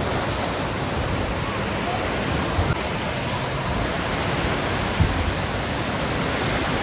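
Steady rush of falling water from the water park's cascades, with two brief low thumps partway through.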